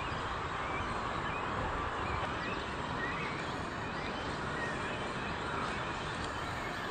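Steady outdoor background noise with a few faint short chirps.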